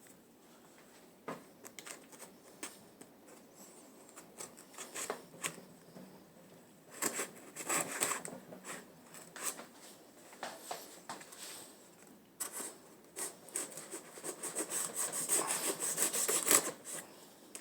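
The battery's shipping box being opened by hand: irregular scraping and rubbing of the packaging with scattered clicks, heaviest in the last few seconds.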